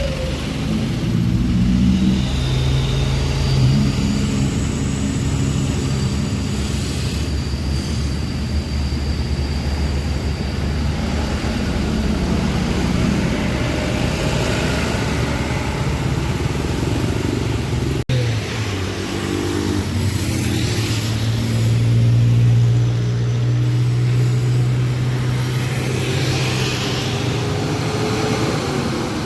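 Diesel engines of heavily loaded trucks labouring up a steep incline, a steady low engine note under load. An abrupt cut about two-thirds of the way through leads to another truck pulling uphill, its engine note rising briefly and then holding.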